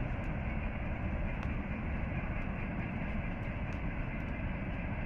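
Campfire crackling, with a few sharp pops, over a steady low rumble.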